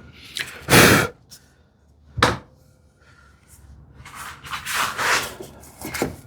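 Wood being worked and handled on a bench: a loud rubbing scrape about a second in, a short wooden knock, then a longer, softer scrape near the end.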